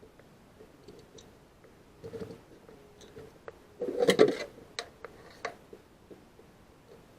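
Scattered light clicks and knocks of small hard objects being handled, with one brief louder clatter about four seconds in, over a faint steady hum.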